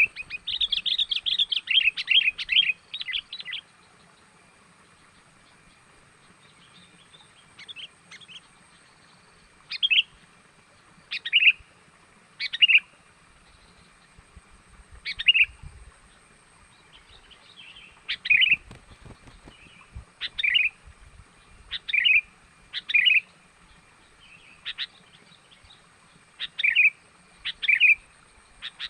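Kutilang (sooty-headed bulbul) lure call: a quick run of chirps at first, then single short, sharp chirps every second or two.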